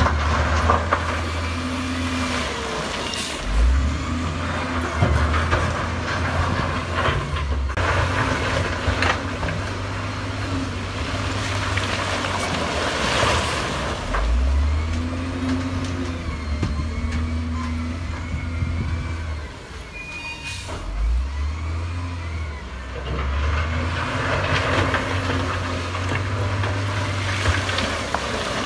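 Heavy diesel earthmoving machinery at work: engines revving up, holding and dropping back again and again, with clatter and occasional short high squeals.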